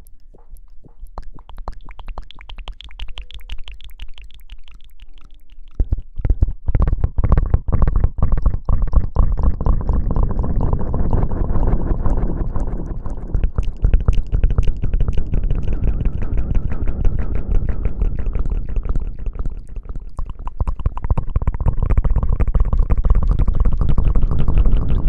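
Close-miked ASMR hair-washing sounds: scrubbing and rubbing right on the microphone, with fine crackling. It starts lighter and becomes much louder and denser about six seconds in.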